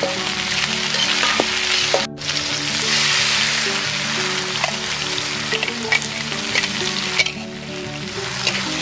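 Water spinach and chilli paste sizzling in a hot steel wok, with a metal spatula scraping and clicking against the pan as it is stirred. The sizzle drops out briefly about two seconds in.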